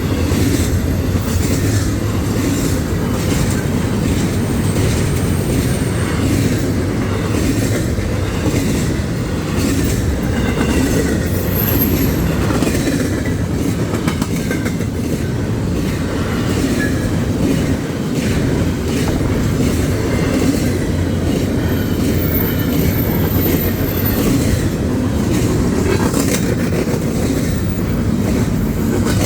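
A long train of rail cars rolling past close by: a steady, loud rumble with the wheels clacking over rail joints, and thin high wheel squeals now and then.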